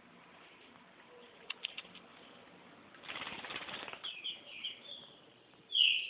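Green-winged saltator (trinca-ferro) fluttering its wings for about a second, followed by a few short high chirps and a louder call near the end. A few faint clicks come before the flutter.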